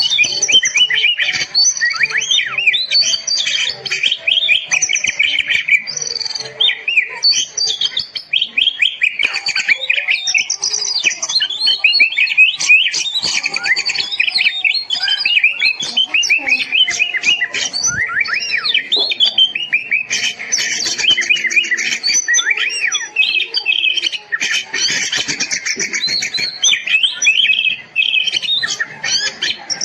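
Oriental magpie-robin (kacer) singing without a break: a fast, varied run of whistles, trills and chirps.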